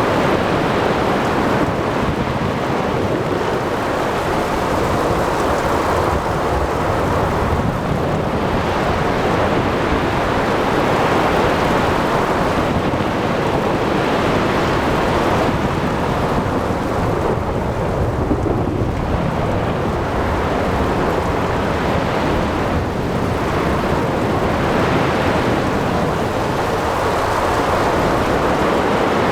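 Ocean thunderstorm: a steady wash of rain and surf with a low thunder rumble underneath, the noise swelling and easing every few seconds like breaking waves.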